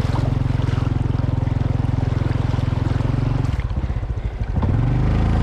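Motorcycle engine running steadily under throttle, easing off about three and a half seconds in, then revving up again near the end.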